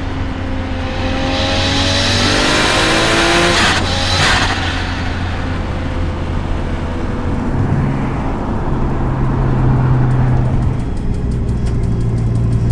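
Car engine revving, its pitch falling as it eases off, with a surge of tyre and engine noise in the first few seconds, then a steady low drone.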